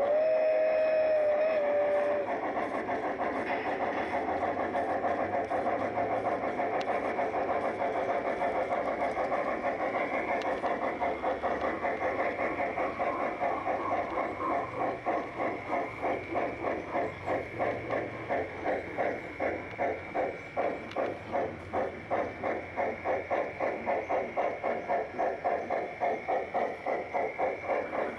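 Large-scale garden railway steam locomotive's onboard sound system: a whistle blows for about two seconds, then steady rhythmic chuffing as the train runs.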